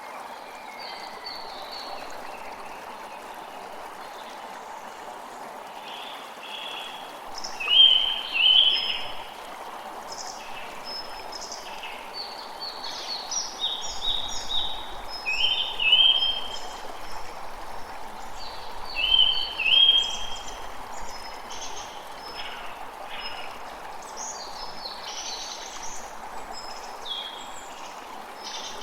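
Steady rush of running water with birds chirping over it in short, repeated notes; the loudest calls come in quick pairs about 8, 16 and 20 seconds in.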